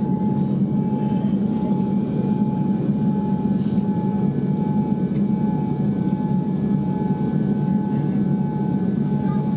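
Steady cabin noise of a Boeing 787-8 airliner heard from a passenger seat: a constant low rumble with a thin, even whine above it.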